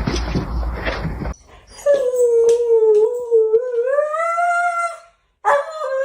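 A dog howling: one long drawn-out howl that dips and then rises in pitch, and a second howl starting near the end. Before it, about a second of noisy scuffling with a few knocks.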